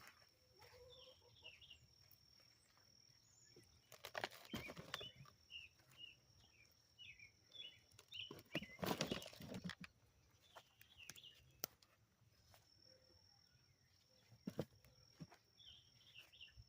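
Hands digging and rustling through dumped-out container soil for potatoes, in a few short bursts. Small birds chirp repeatedly in the background, and a faint steady high tone runs throughout.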